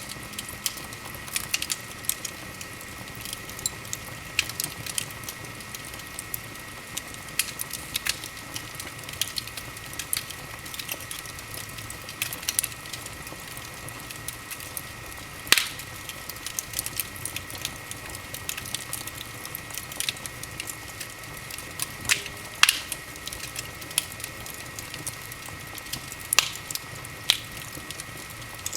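Wood fire burning in a fireplace: constant crackling with irregular sharp pops, a few of them louder, over a faint steady high-pitched tone.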